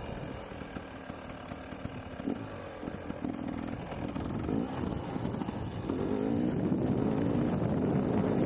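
Dirt bike engine running and revving up and down, growing louder in the second half.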